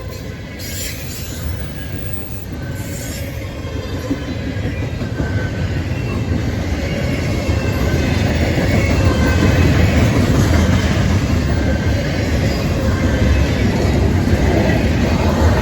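Norfolk Southern train rolling by on the rails, its rumble growing louder for the first several seconds and then holding steady, with a thin high wheel squeal over it.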